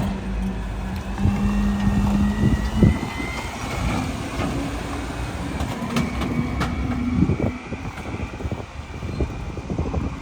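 Mack MRU rear-loader garbage truck on compressed natural gas, running and working its McNeilus packer: a steady hum that stops about three seconds in and returns briefly a few seconds later, with scattered cracks and knocks of bulk trash being packed.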